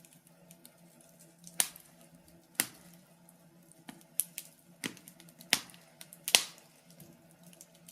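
Firewood burning in a fireplace, crackling with sharp, irregular pops, some of them much louder than the rest.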